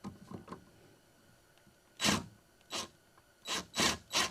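Cordless impact driver run in short bursts, driving a self-tapping screw into a kayak's plastic hull to start it. The bursts begin about two seconds in and come quicker towards the end, after a few light handling taps.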